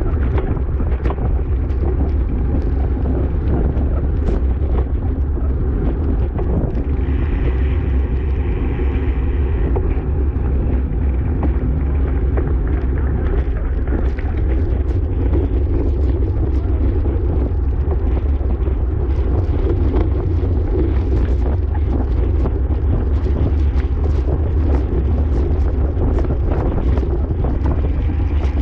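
Wind buffeting the microphone of a camera riding along on a racing bicycle at speed: a steady, loud, low rumble with scattered faint clicks.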